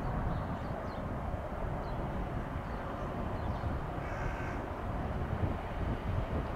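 Steady low rumble of an approaching freight train in the distance, with one harsh crow caw about four seconds in and faint small-bird chirps.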